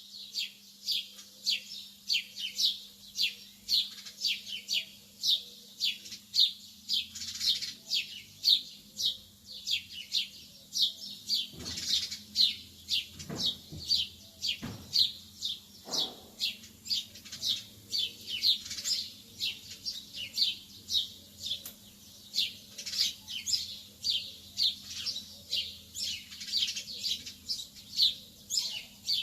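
Lovebirds chirping continuously: quick, repeated high-pitched chirps, about two a second. A faint steady hum runs underneath, with a few soft knocks around the middle.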